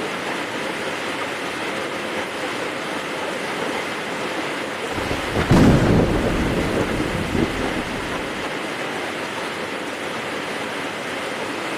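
Heavy rain falling steadily. About five seconds in, a thunderclap cracks and rumbles low for about three seconds before fading back under the rain.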